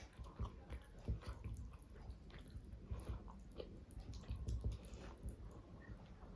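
Close-up mouth sounds of someone chewing a mouthful of rice and fish curry: soft, wet, irregular chewing clicks and squelches, several a second.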